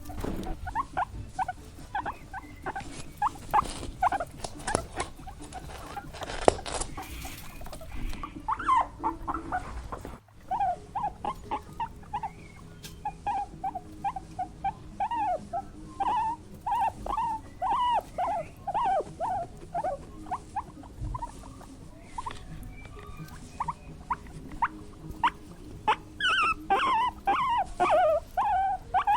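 Small animals squeaking: many short, high squeaks in quick runs, with a sudden break about ten seconds in.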